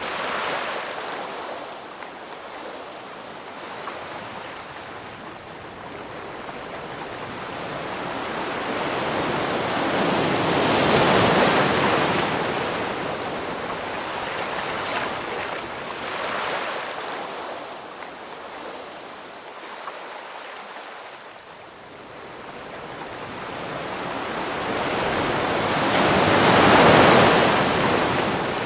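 Ocean waves washing onto a shore, a steady hiss that swells and fades in slow surges, with larger waves breaking about a third of the way in and near the end.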